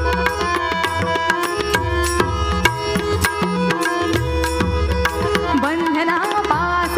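Instrumental interlude of a Marathi abhang: tabla strokes over held melody notes, with a voice gliding in near the end.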